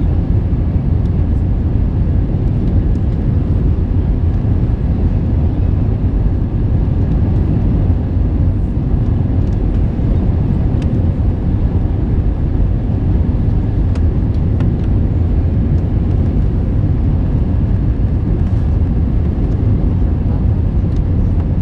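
Steady, loud low rumble of an Airbus A321 cabin: jet engine and airflow noise, unchanging throughout, with a few faint ticks.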